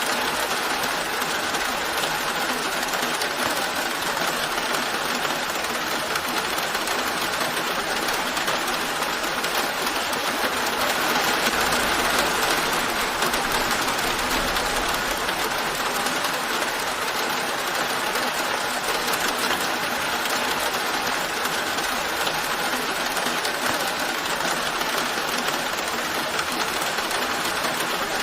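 Steady rain falling, swelling slightly near the middle.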